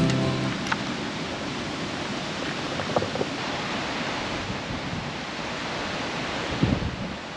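Steady rushing noise, even and unbroken, as music fades out in the first half-second.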